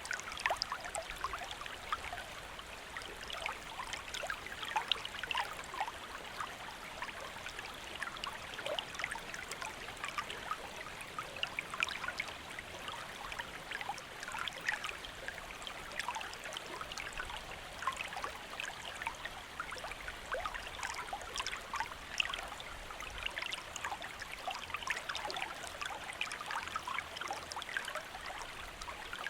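A shallow stream flowing steadily over rocks, with many small splashes and trickles over its even rush.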